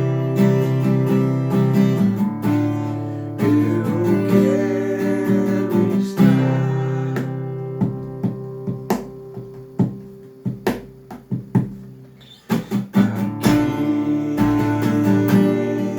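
Acoustic guitar playing a piece instrumentally: ringing strummed chords, easing about halfway into a quieter run of single plucked notes, with full chords returning near the end.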